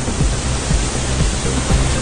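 A loud, steady rush of water pouring through the opened gates of a dam, with music playing underneath.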